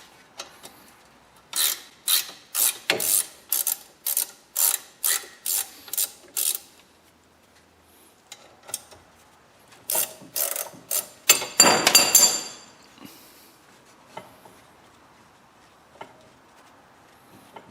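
Socket ratchet wrench clicking as an 18 mm brake caliper bracket bolt, already broken loose, is backed out. There is a run of clicks about two a second, a pause, then a quicker, denser burst of clicking a little past the middle.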